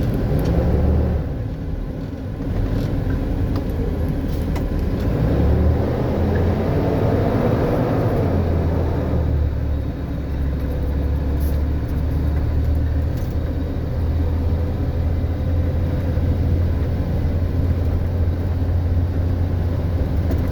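Car engine and road noise while driving: the engine note rises as the car speeds up a few seconds in, then settles into a steady low hum.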